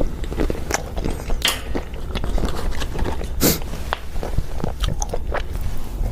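Close-miked chewing of crunchy spicy peanuts: irregular crunches and bites, the loudest crunch about three and a half seconds in.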